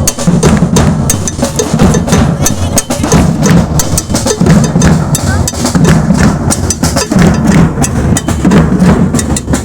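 Live drums and percussion playing with many sharp, rapid hits, over the voices of a crowd.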